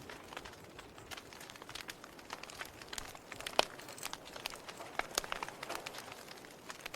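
Wood fire crackling, with irregular sharp pops and snaps over a faint hiss; one louder pop comes about halfway through.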